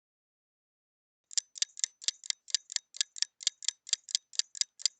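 Quiz countdown timer sound effect: sharp clock ticks, about four a second, starting a little over a second in after silence.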